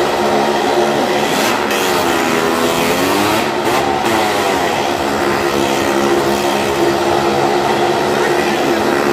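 Car and motorcycle engines running hard as they circle the vertical wooden wall of a well-of-death drum. The engines make a loud, continuous drone whose pitch dips and then climbs again as the vehicles sweep around.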